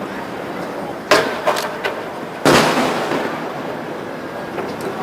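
Aerial fireworks bursting. A few sharp bangs come about a second in, then the loudest boom about two and a half seconds in, rumbling away over a steady din.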